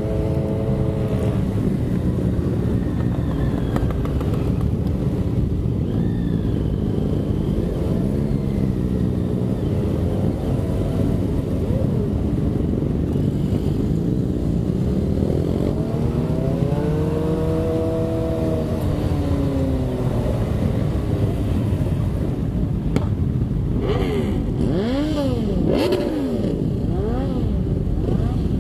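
Motorcycle engines running on the move, their pitch rising and falling again and again as the throttle is opened and closed through the gears. There are two strong rev-up-and-down swells, one in the middle and one near the end.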